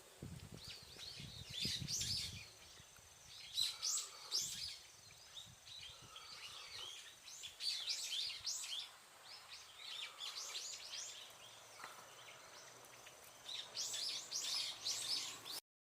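Small birds chirping in repeated clusters of short, quick calls, over a faint steady high-pitched whine. The sound cuts off suddenly near the end.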